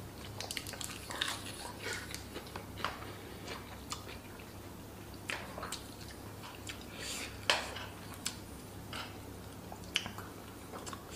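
Close-up chewing and wet mouth sounds of a person eating fish and rice, with irregular small clicks and crackles.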